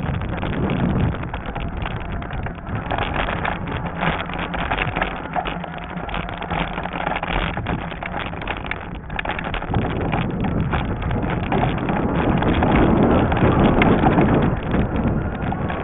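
Wind buffeting the microphone while riding a Lectric XP fat-tire e-bike over a rough trail, with frequent rattling knocks from the bike jolting over bumps.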